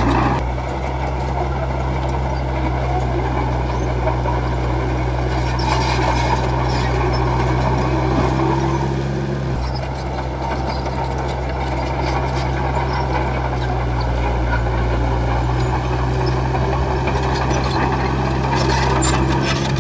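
Bulldozer's diesel engine running steadily at working revs, its pitch shifting slightly about halfway through, with a few metallic clanks from the machine.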